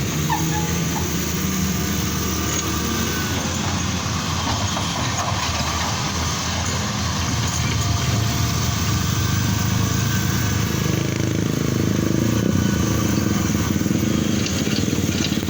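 Engines running steadily, growing somewhat louder in the second half.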